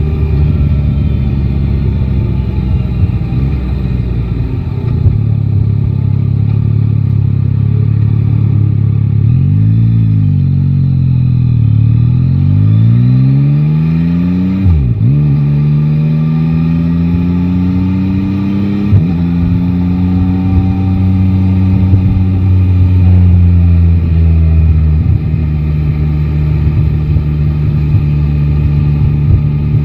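Yamaha Tracer 9 GT's 890 cc inline three-cylinder engine running steadily. From about ten seconds in it pulls up through the gears, its pitch rising and then dropping sharply at each of two shifts, before settling to a steady cruise.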